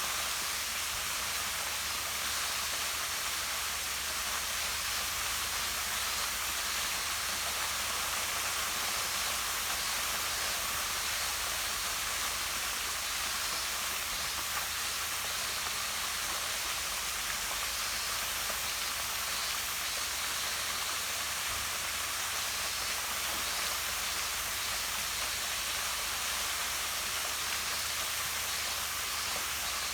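Small waterfall, Kamenoo-no-Taki, with water falling down a rock face and splashing into a pond below, giving a steady, unbroken hiss of falling water.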